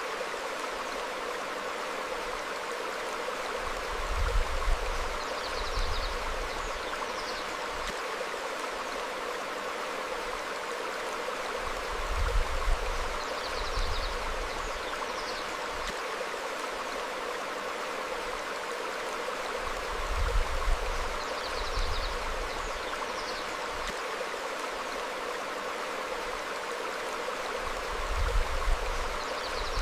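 Shallow stream flowing steadily over rocks, a continuous rushing burble. About every eight seconds the same brief low rumble and a couple of faint high bird chirps recur, as the recording loops.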